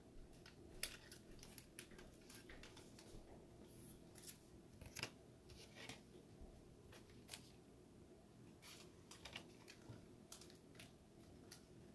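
Faint, scattered small clicks and snips of trading cards being handled and slid into plastic sleeves.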